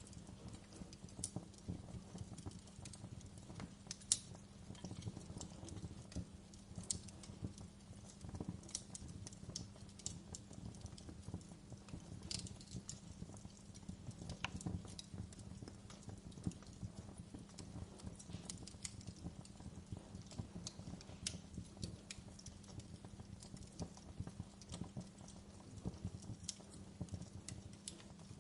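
Wood fire burning in a fireplace, crackling with irregular sharp pops and snaps over a steady low rumble. The loudest pop comes about four seconds in.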